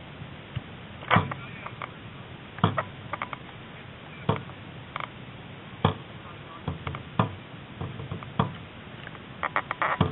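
Dragon boat crew paddling in time: a sharp hit about every second and a half, with lighter clicks in between and a quick run of clicks near the end.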